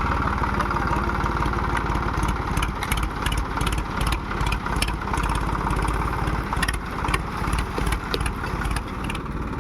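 Diesel tractor engine running steadily, with scattered short clicks and rattles over it.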